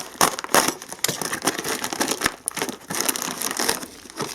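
A postal parcel being opened by hand: its packaging crinkles, crackles and tears in irregular bursts with sharp rustles.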